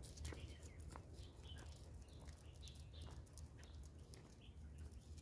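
Near silence, with a few faint bird chirps and scattered faint clicks over a low steady rumble.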